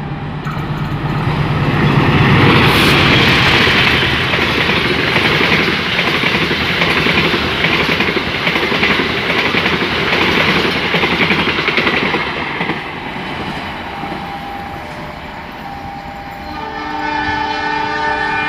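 A passenger train passing close by on the adjacent track: loud wheel-on-rail rumble and rattle that swells about two seconds in, holds for some ten seconds and then dies away. Near the end a train horn sounds, a held blast of several tones at once.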